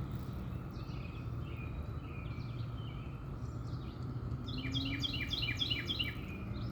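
Outdoor ambience: a steady low rumble with songbirds chirping. Late on, a bird gives a quick run of short, repeated chirps.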